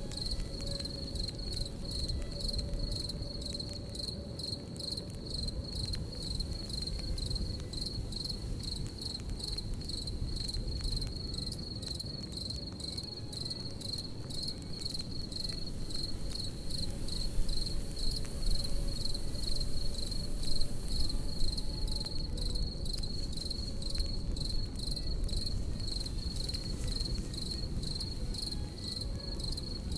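Crickets chirping in a steady, rapidly pulsing high trill, over the low rumble and scattered small pops of a crackling campfire, with a few louder pops around the middle.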